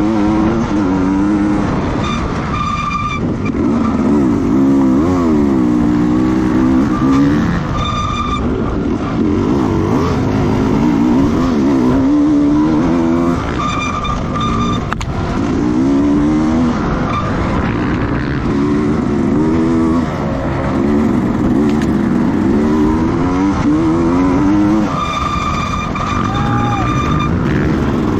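Racing motorcycle engines running hard, rising and falling in pitch again and again as they rev up and shift through the gears. A high steady whine comes and goes several times.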